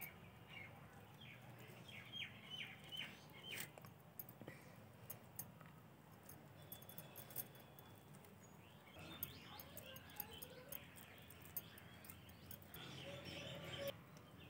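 Near silence with small birds chirping faintly in the background: runs of short, quick chirps in the first few seconds, then only scattered faint clicks.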